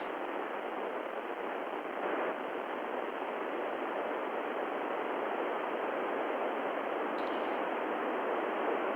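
Steady FM receiver static from an ICOM IC-9700 tuned to the ISS crossband repeater's 70 cm downlink, with no station on the channel. The hiss grows slightly louder as the space station's signal fades at the end of the pass.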